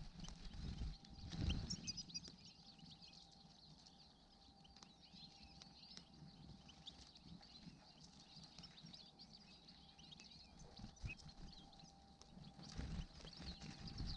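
Small birds twittering faintly, many short high chirps one after another, with brief low rumbles about a second in and again near the end.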